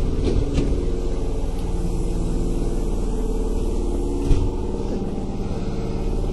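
Kintetsu 8000 series electric train running at a steady speed, heard from inside the car: continuous low rumble of wheels on rail with a steady hum from the running gear, and a single knock about four seconds in.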